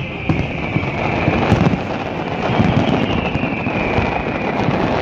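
Fireworks display: aerial shells bursting in rapid succession, a continuous rumble of booms overlaid with dense crackling.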